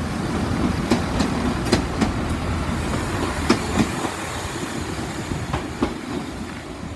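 Wheels of a train, plausibly the Class 166 diesel multiple unit 166206, clicking in pairs over rail joints as it moves off, the rumble fading in the second half.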